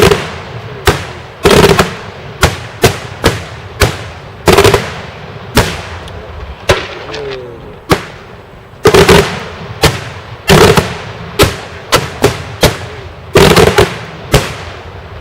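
Daytime fireworks: a rapid, irregular series of loud, sharp bangs from exploding shells, one to two a second, each with a short echoing tail.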